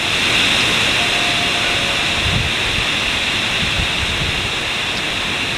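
Heavy driving rain hissing steadily in hurricane-force weather, with gusts of wind rumbling low on the microphone a little over two seconds in and again around four seconds in.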